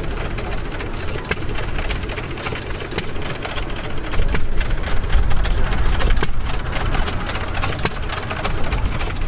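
Antique gas engines running at an engine show: a steady low rumble with many sharp, irregular firing pops and clicks.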